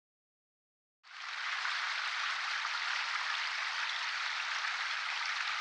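A steady, grainy storm hiss like precipitation pelting a surface. It starts abruptly about a second in, after dead silence, and holds level, with almost no deep rumble.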